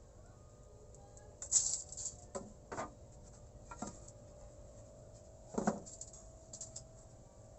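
Scattered knocks and clicks of wooden boards or hand tools being handled and set down, several in all, the loudest about a second and a half in and again a little past halfway, over a faint steady hum.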